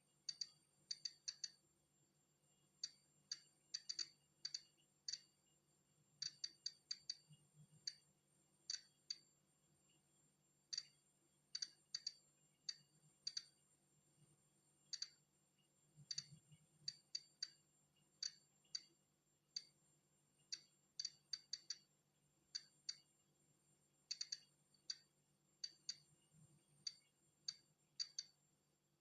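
Polon EKO-C digital Geiger counter clicking at random intervals, sometimes two or three in quick succession and sometimes a second or more apart: each click is one detected particle of natural background radiation.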